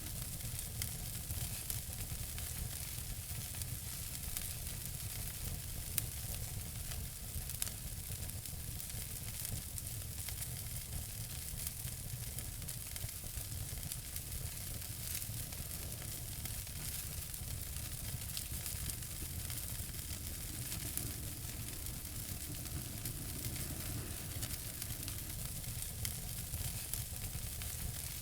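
Wood fire burning in a fireplace: a steady hiss with scattered sharp crackles and pops, the sharpest about six seconds in.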